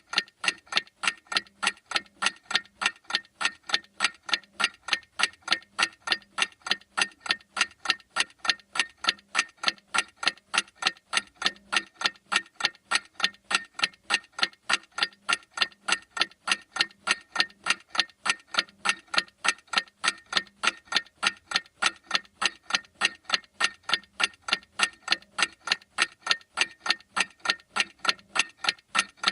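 Clock ticking at a steady, even rate, each tick a sharp click.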